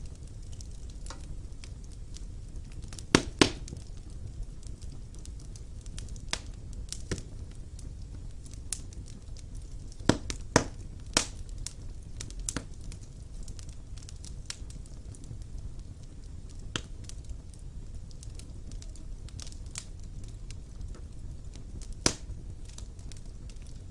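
Wood fire burning in a stone fireplace: a low steady rumble of flames with irregular sharp crackles and pops, a few louder snaps about 3 s in, around 10 to 11 s in, and near 22 s in.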